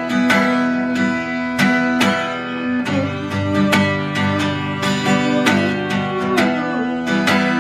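Acoustic guitar strumming chords, in an instrumental passage with no singing.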